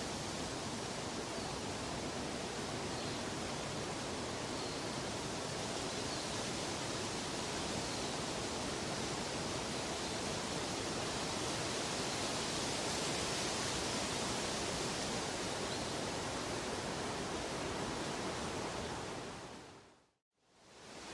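Steady, even rushing noise spread across all pitches, like a waterfall or a sleep-noise track. It fades out near the end to a moment of silence, then fades back in.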